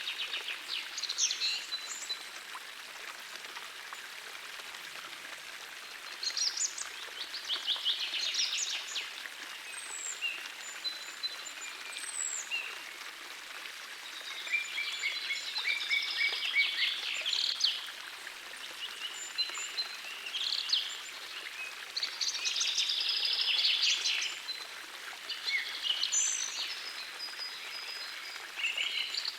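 Songbirds singing and chirping in repeated high trills and phrases, several at a time, over the steady rush of a gentle forest stream.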